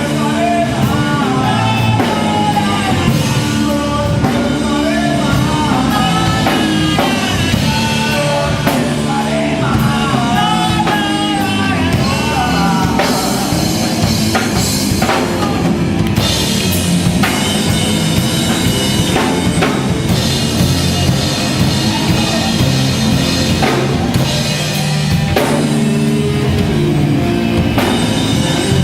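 Live rock band playing loud, with a drum kit keeping the beat under electric guitar and bass, and a wavering melodic line over it in the first half.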